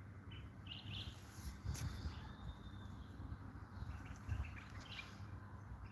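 A few faint, high chirps from a European goldfinch and a short thin whistled note, scattered over a low background rumble.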